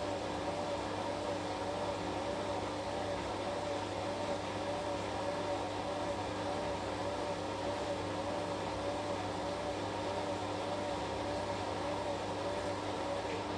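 Washing machine running: a steady motor hum with a whine that wavers evenly up and down, which drops away near the end.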